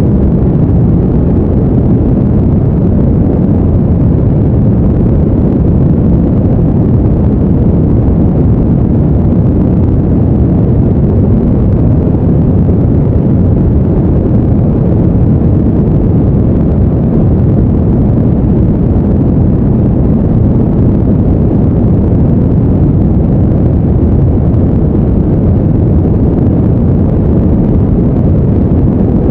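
Steady, deep, even noise with no rhythm, tone or change, heaviest in the low end, like a brown-noise sleep track.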